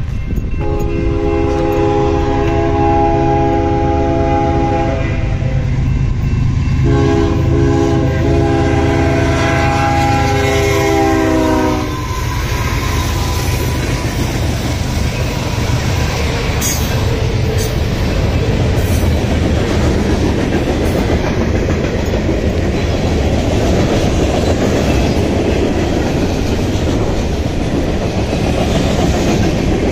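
Air horn of CSX diesel freight locomotives blown in two long chord blasts at a grade crossing, the second one dropping in pitch as the locomotives pass, over the low drone of the engines. After that, the train's freight cars roll past with a steady noise of steel wheels on the rails.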